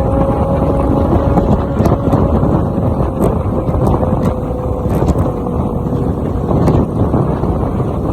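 Motorcycle engine running at freeway speed under heavy wind rush. An engine note slowly drops in pitch and fades out about five seconds in.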